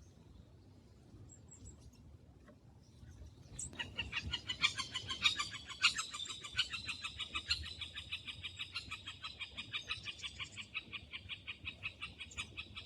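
A songbird singing a long, even trill of rapid repeated notes. It starts about four seconds in and keeps going.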